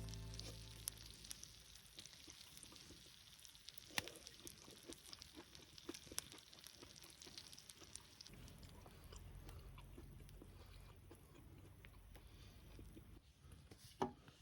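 Music fading out at the very start, then faint scattered crackling and clicking, with a sharper click about four seconds in and another near the end.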